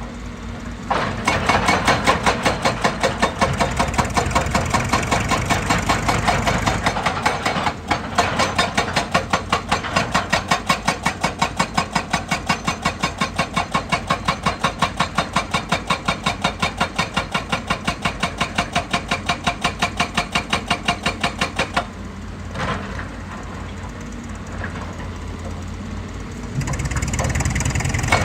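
Excavator's hydraulic rock breaker hammering rock with rapid, even blows, several a second, for about twenty seconds, then stopping. The excavator's diesel engine keeps running and speeds up again near the end.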